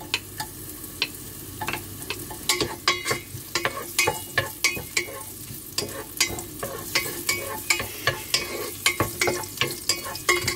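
Sliced onion and ginger frying in a little oil in a stone-coated casserole pot, with a light sizzle and crackle, while a wooden spatula stirs and knocks against the pot in quick, irregular clicks.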